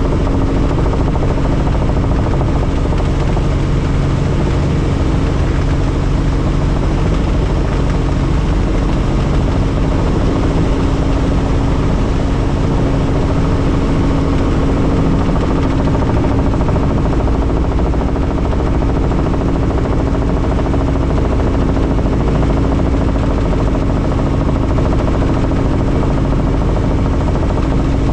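Helicopter in flight: steady, unbroken rotor and engine noise with a constant low hum.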